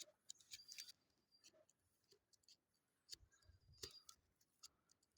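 Near silence, with a few faint scattered crackles and clicks from the dry leaves and kindling of a small, struggling campfire.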